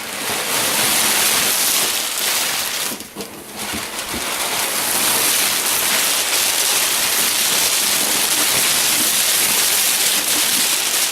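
Packing material crinkling and rustling steadily as it is pulled out of a shipping box, with a brief lull about three seconds in.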